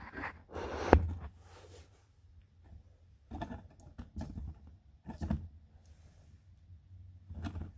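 A sharp knock about a second in, then a few short, scattered knocks and rustles from parts or tools being handled.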